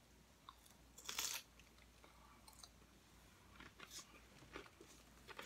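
Crunching bite into a tortilla chip about a second in, followed by faint chewing clicks.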